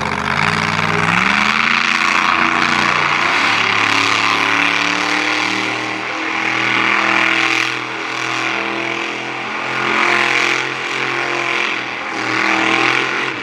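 Monster truck engine running hard at high revs. Its pitch climbs about a second in and then holds, with the level swelling and easing off every few seconds as the throttle is worked.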